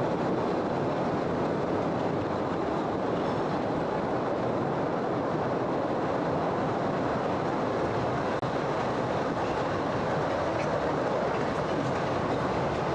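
Postojna Cave tourist train running along its track, a steady rumble of wheels on the rails.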